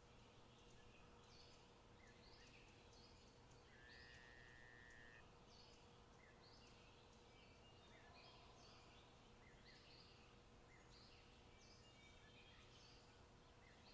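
Faint forest birdsong: many short, high chirping calls repeating throughout, with one longer buzzy call about four seconds in.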